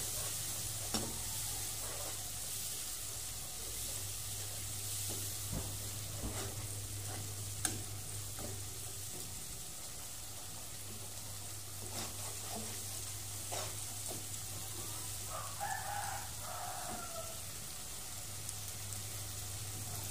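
Ground chilli-and-shallot spice paste with curry seasoning sizzling as it fries in oil in a wok-style pan, stirred with a spatula that clicks against the pan every few seconds. The paste is being fried until fragrant.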